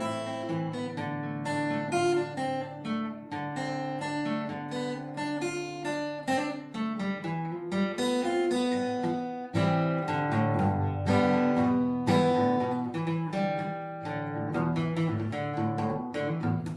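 Acoustic guitar playing, a run of plucked notes and chords over a lower sustained bass line.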